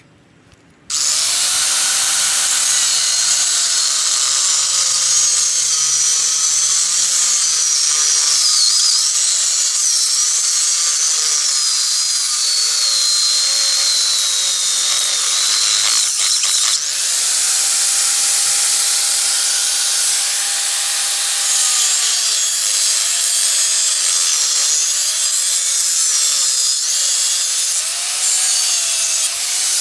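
Handheld electric power tool starting about a second in and running continuously, its motor pitch sagging and wavering as it is pressed onto the work. Briefly eased off about halfway, it runs at a steady higher pitch before being loaded again.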